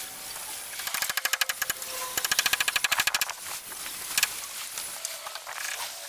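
Two bursts of rapid rattling strikes from a power tool working on wood, about ten a second, the second burst a little over a second long, then a single knock.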